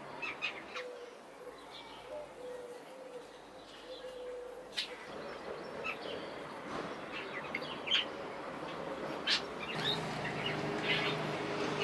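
Birds chirping: short, scattered chirps over a steady background hiss.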